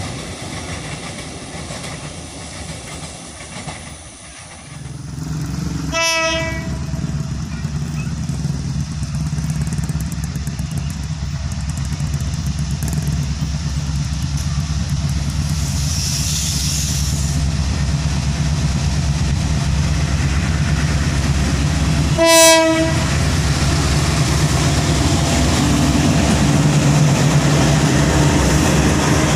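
Diesel-hauled coal train: two KAI diesel-electric locomotives running in double traction, engine drone building as they approach and pass, with wheels on the rails. Two short horn blasts, one about six seconds in and another about three-quarters of the way through. In the first few seconds a receding freight train fades before the new scene.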